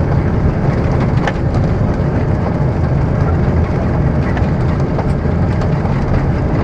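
Cabin noise inside an Airbus A330 during landing: a loud, steady rumble of engines and airflow, with a couple of faint rattles.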